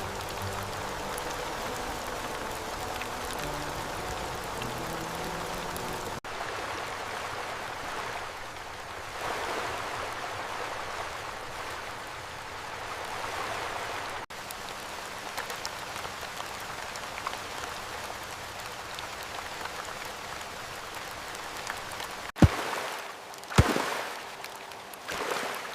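Steady rain falling, an even hiss of water, with faint music fading out in the first few seconds. Near the end come a few sharp, loud knocks.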